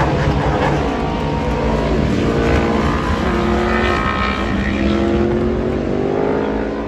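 Racing motorcycle engines at high revs as several bikes go past, their pitch rising and falling and overlapping.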